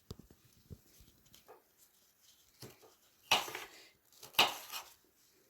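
Knife slicing a bell pepper on a cutting board: light taps and clicks, then two louder short noisy sounds a little past three seconds and about four and a half seconds in.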